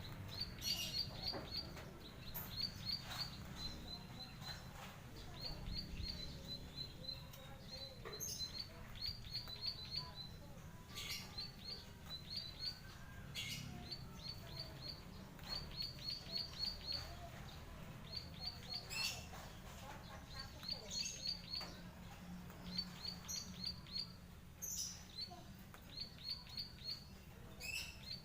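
Plain prinia (burung klik-klik, prenjak padi) calling: short runs of rapid, high clicking notes, repeated every second or two, with a few separate sharper chirps between them over a low steady hum.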